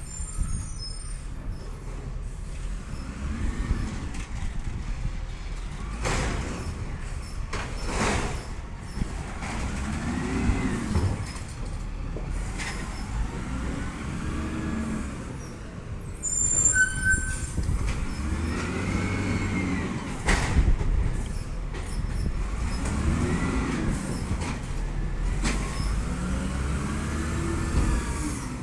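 Garbage truck engine revving up and easing back down over and over, about every four seconds, as it powers its hydraulics. A few sharp bangs fall in between, and about halfway through there is a brief high squeal.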